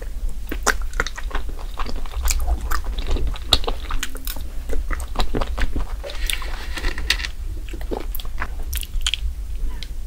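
Close-miked eating of salmon roe and raw salmon sashimi: wet chewing with many short, sharp mouth clicks and smacks.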